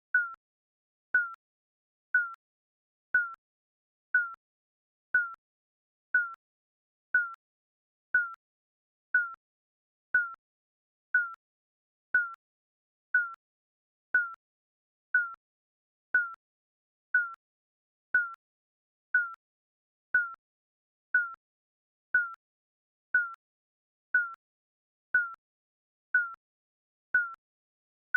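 Digital countdown timer beeping once a second: a short, high electronic beep that dips slightly in pitch, with silence between beeps.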